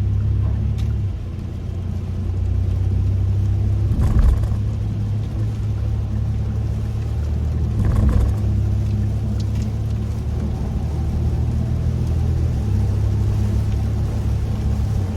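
Steady low drone of road and engine noise heard inside the cabin of a moving Kia K5, with two short knocks about 4 and 8 seconds in.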